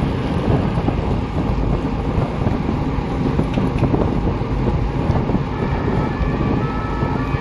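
Steady wind rumble on the microphone, a dense low rushing noise without breaks.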